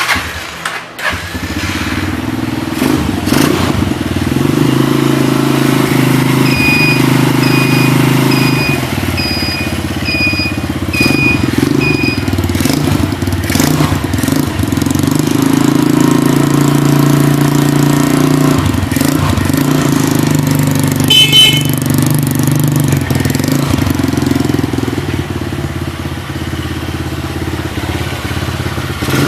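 Quad bike engine running, its pitch shifting a few times as the throttle changes. A row of seven short, evenly spaced beeps sounds about a third of the way in.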